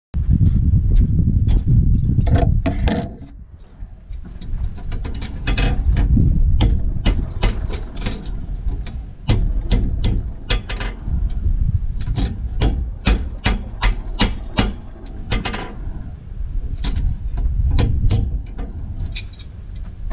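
Farrier's hammer knocks and taps at irregular intervals over a steady low rumble, starting abruptly.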